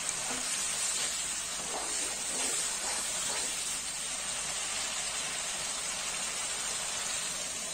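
Spiced masala paste sizzling steadily in oil in a non-stick kadai as a wooden spatula stirs it. The oil has separated from the spices, the sign that the masala is fully cooked.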